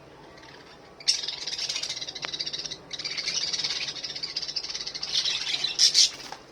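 Budgerigar giving a harsh, rapid, high-pitched chatter. It starts about a second in, pauses briefly midway and grows loudest just before it stops.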